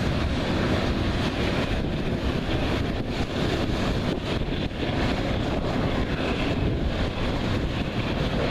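Loaded coal hopper cars rolling past on steel wheels, a steady rumble and rattle of wheels on rail, with wind on the microphone.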